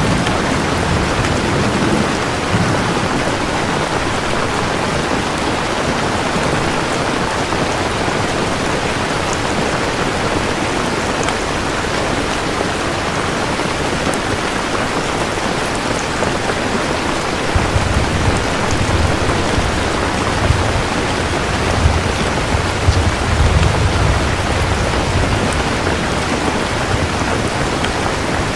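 Steady heavy rain falling, with low rolling thunder rumbling at the start and again for several seconds past the middle.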